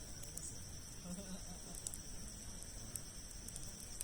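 Wood campfire of large logs crackling, with a few scattered sharp pops, over a steady high-pitched drone of insects.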